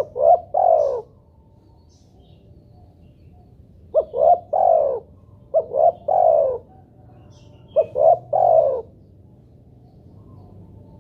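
Spotted dove cooing: four three-note phrases of two short coos and a longer coo that falls in pitch, a few seconds apart.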